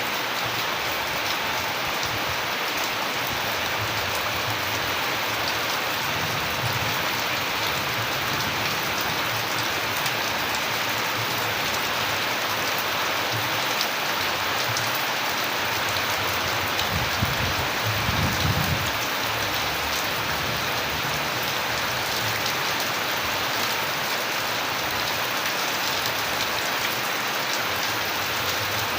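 Steady rain falling, a dense even patter of drops, with a brief low rumble about two-thirds of the way through.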